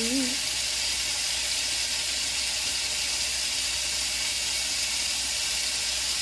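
Kitchen faucet running steadily into the sink as a handful of blueberries is rinsed under it.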